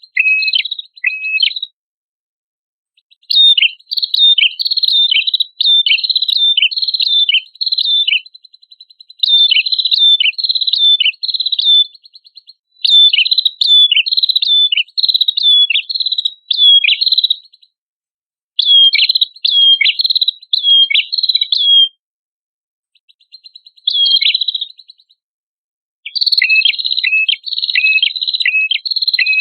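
Prenjak kepala merah singing in bouts of fast, repeated sharp chirps, each note a quick downward slur, with short pauses between bouts.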